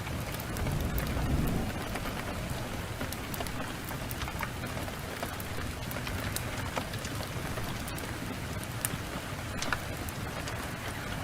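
Steady heavy rain with scattered sharp crackles from a wood fire, and a brief low rumble of distant thunder swelling about a second in.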